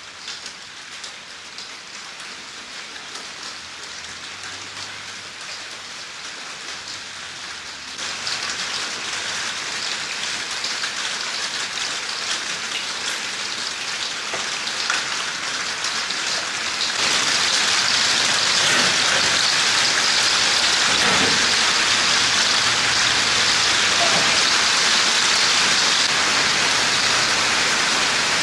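Rain falling steadily, getting heavier in two sudden steps, about a third of the way in and again past halfway.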